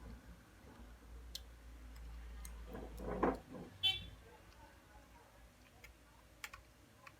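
Table sounds during a meal: scattered light clicks and taps, a brief murmured voice about three seconds in, and a short high beep just after it.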